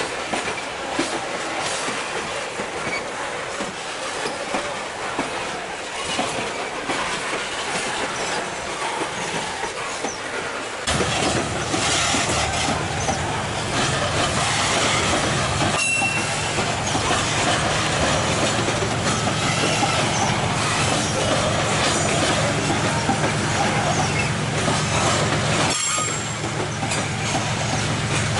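Freight wagons rolling past on steel rails with steady wheel and track noise. About eleven seconds in the sound changes abruptly and grows louder, with a steady low diesel locomotive engine drone under the passing wagons. Brief high wheel squeals come twice.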